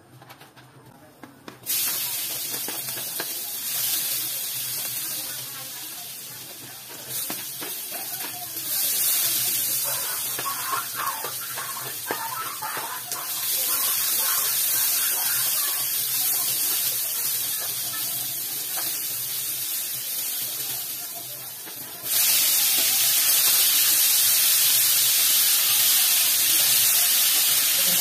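Chopped onion and garlic frying in oil in a hot aluminium wok: a steady sizzle that starts suddenly about two seconds in, with a spatula stirring. About twenty-two seconds in the sizzle jumps louder as more ingredients go into the pan.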